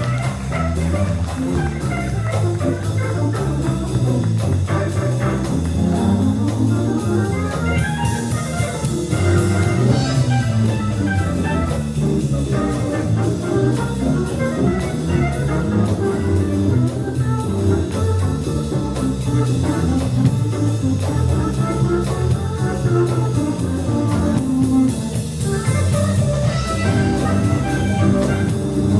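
Live jazz band playing, with a saxophone featured, playing runs that climb and fall.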